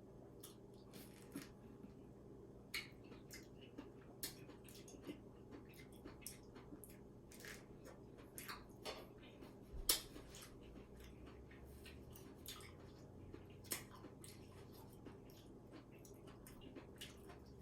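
Faint, irregular soft clicks and smacks of a person eating, with one sharper click and a dull knock about ten seconds in.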